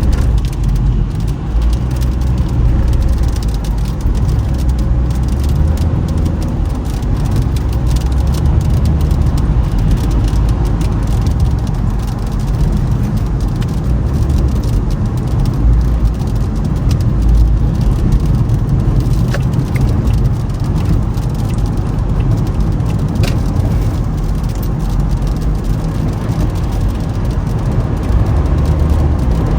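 Toyota Camry driving on a snowy, icy road: a steady low rumble of road and engine noise, with scattered faint clicks over it.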